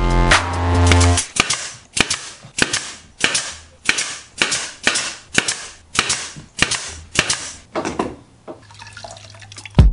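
Pneumatic nail gun firing into a wooden frame: about ten sharp pops, roughly one every two-thirds of a second, each followed by a short ring.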